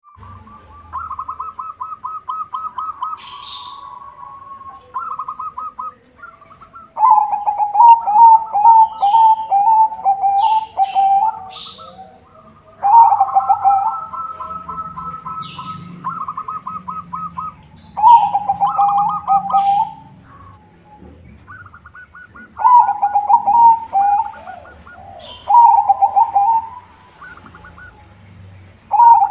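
White zebra dove (perkutut) singing: repeated phrases of rapid, rolling coo notes, each phrase lasting one to three seconds with short pauses between, some pitched higher and some lower. Brief high chirps sound now and then above the cooing.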